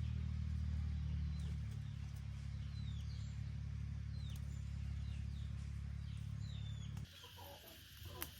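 A steady low engine-like hum with high, short, falling chirps about once a second, like birds or chicks. Near the end the hum cuts off suddenly, leaving quieter, busier chirping and one sharp click.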